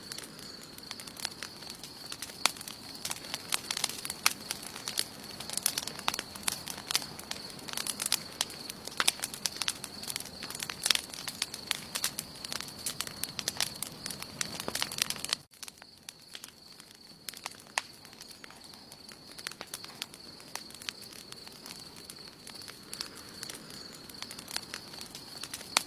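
Wood campfire burning, crackling and popping with many sharp snaps. The snaps are dense at first, break off suddenly about halfway, then go on sparser.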